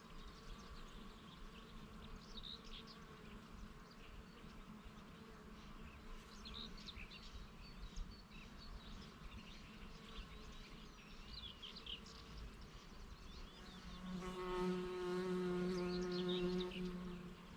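Birds chirping and singing in the background with a faint insect hum; about fourteen seconds in, a bee flies close past and buzzes loudly and steadily for about three seconds before fading off.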